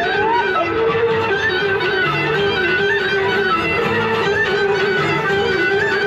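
Bulgarian folk music played on instruments: a wavering melody over a repeating lower accompaniment.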